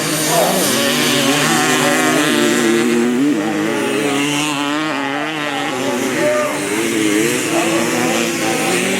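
Several vintage motocross motorcycles' engines running at once, their pitches rising and falling as they rev on and off the throttle.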